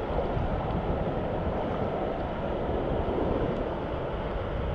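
Wind buffeting the microphone over the steady wash of surf on the beach, with no other distinct sound.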